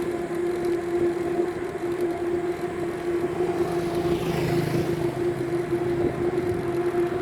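Road traffic heard from a moving bicycle, over a steady hum. A vehicle passes about four to five seconds in, swelling and then fading.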